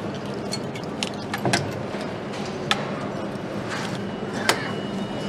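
Factory-floor ambience on a motorcycle assembly line: a steady mechanical hum and hiss with scattered metallic clicks and clinks of tools and parts, the sharpest about four and a half seconds in.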